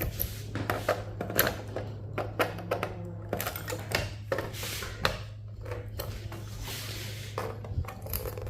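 Hand cutters snipping the metal legs off IC chips on a circuit board, making a string of irregular sharp clicks and snips over a steady low hum.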